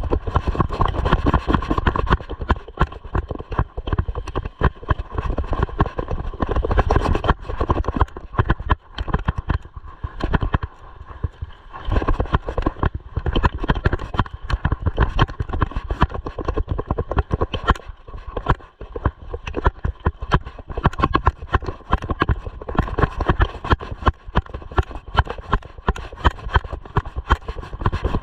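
Rapid, irregular knocking and rattling from a mountain bike riding over a rough dirt trail, running on without a break.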